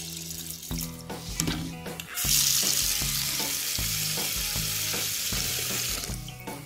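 Kitchen tap running into a bowl of mung beans to rinse them. The water comes on about two seconds in and stops near the end, over background music.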